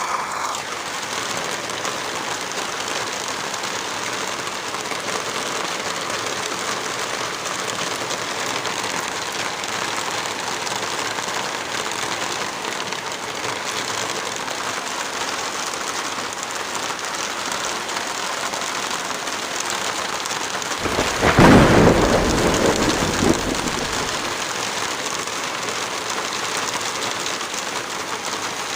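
Heavy rain falling steadily as an even hiss. About two-thirds of the way through, a sudden deep rumble swells over it for about three seconds and then fades.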